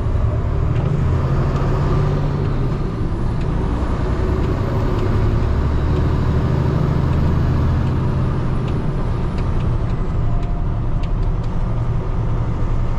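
Peterbilt 589 dump truck's diesel engine running, a steady low drone that rises and eases slightly a couple of times.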